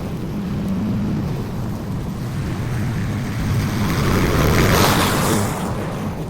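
Petrol lawn mower engine running steadily, with a louder swell of noise about four to five seconds in.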